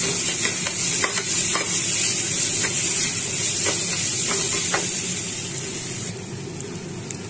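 Onions, black gram and green chillies sizzling in hot oil in a pressure cooker while a metal spoon stirs them, scraping and clicking against the pot about a dozen times. The sizzling drops away suddenly about six seconds in.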